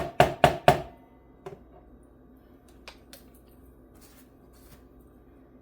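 Three quick, sharp taps, evenly spaced at about four a second, ending a run of hammer taps on the guitar; a few faint clicks of handling follow.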